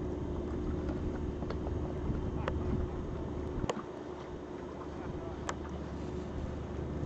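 Steady low rumble of wind on the microphone aboard a boat on the water, with a faint steady hum and a few light clicks scattered through it.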